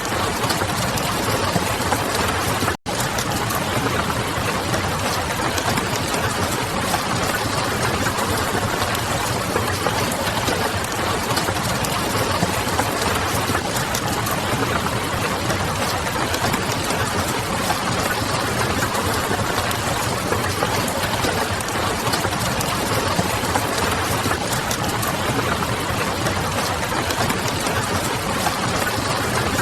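Steady rain and a crackling wood fire, heard together as a dense, even hiss with faint scattered crackles. The sound cuts out for an instant about three seconds in.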